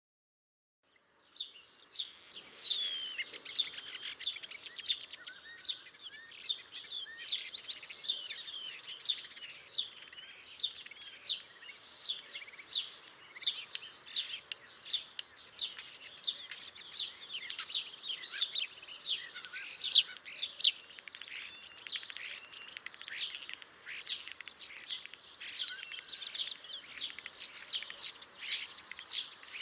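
Starlings singing: a dense, continuous stream of short chirps, clicks and whistles, starting about a second in with a long falling whistle.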